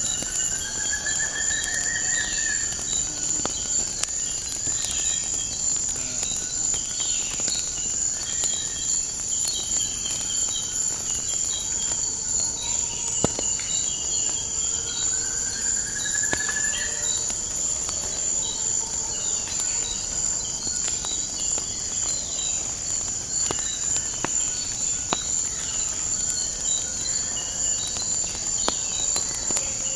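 Nature ambience: a steady, high-pitched insect chorus, with birds chirping and a rising whistled call twice. Scattered sharp clicks of fireplace crackling run through it.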